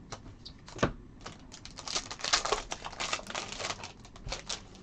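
Trading cards being handled and flipped through by hand: a quick run of light clicks and card slaps, densest in the middle, with one firmer tap about a second in.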